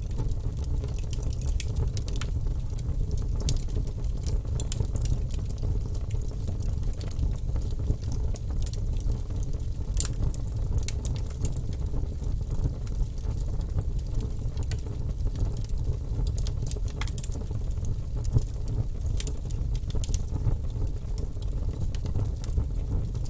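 Fire burning in a fireplace: a steady low rumble of flame with scattered sharp crackles and pops throughout.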